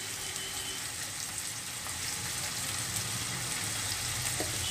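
Chopped onions and dried fish frying in oil in a frying pan: a steady sizzle with a few faint pops.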